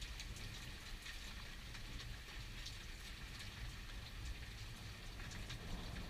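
Steady rain falling in a thunderstorm, with scattered sharp ticks of single drops and a low, even rumble underneath; no loud thunderclap.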